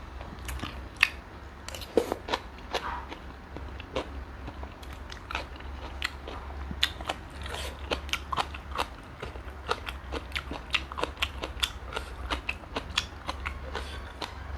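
Close-up chewing and biting: many small, irregular crunches and wet clicks of a person eating giant river prawns with a fermented fish paste sauce.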